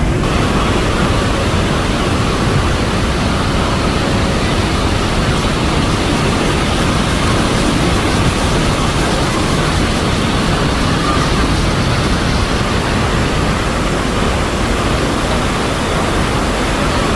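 Iguazu Falls: the steady, loud rush of a huge volume of falling water.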